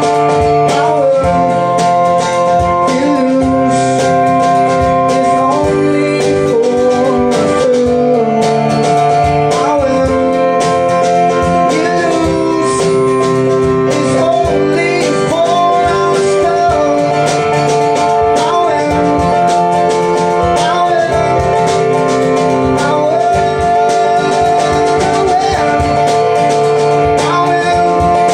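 Live acoustic band performance: a singer over strummed guitar and sustained chords, playing steadily.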